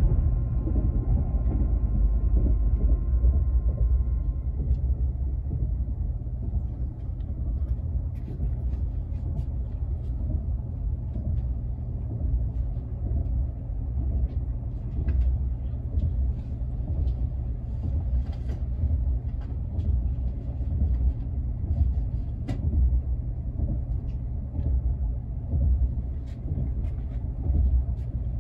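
Sapsan high-speed train (Siemens Velaro RUS) running at speed, heard inside the passenger car as a steady low rumble. A faint high whine of several steady tones sounds for the first four seconds or so and then stops, with scattered light clicks over the rumble.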